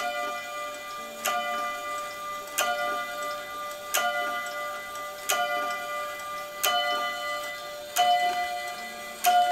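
Chain-driven wall clock striking on a bell: eight strokes about 1.3 seconds apart, each ringing on until the next.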